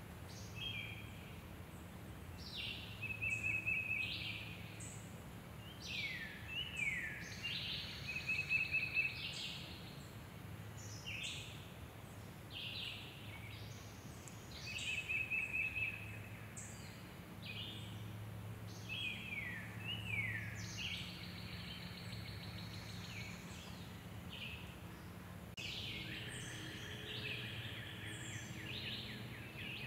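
Woodland birdsong: a songbird repeats a short song of quick downward-sliding notes and a fast trill about every five to six seconds, over a low steady background hum.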